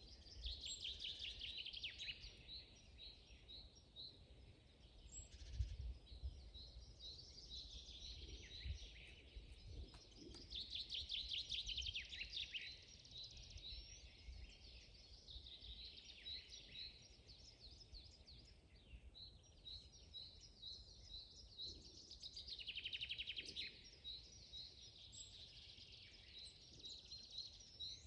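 Forest songbirds singing: a string of short, high chirping notes, with fast trills coming in bursts about a second long every few seconds, over a faint low rumble.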